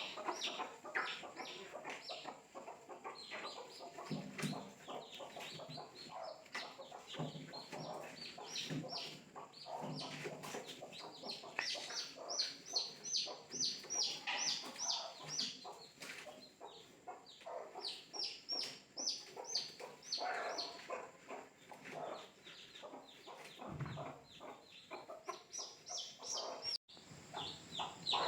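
Chickens: a flock of young chicks peeping constantly in quick, high, downward-sliding notes, with a hen's lower clucks mixed in.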